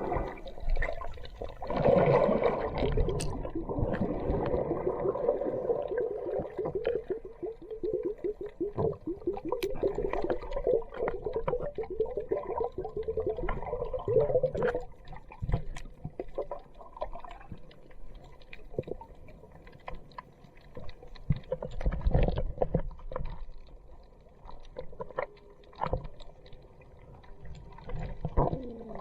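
Water gurgling and bubbling with scattered knocks, as heard through a camera filming underwater. A fast run of bubbling comes in the first half, then quieter sloshing.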